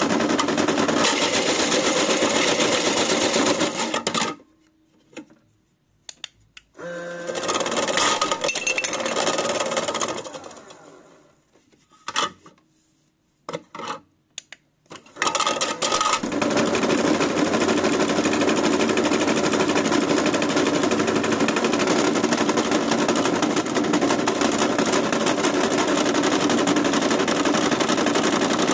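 AEG washing machine running hard with a loud, rapid rattling and banging. It cuts out about four seconds in, comes back briefly, goes quiet again, then starts up again about halfway through and runs on steadily.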